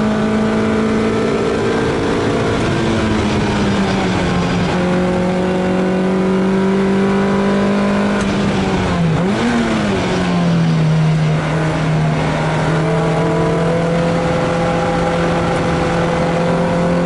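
Lotus Elise S2 race car's Rover K-series four-cylinder engine running hard on track, heard from inside the cabin. The note holds high and steady; about halfway through it dips, briefly rises again, then settles a little lower and slowly climbs as the car pulls on.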